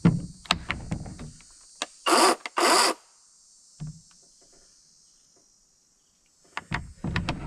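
Clicks and knocks of a chainsaw being handled after its chain has been tensioned, with two short, loud rasping bursts a couple of seconds in.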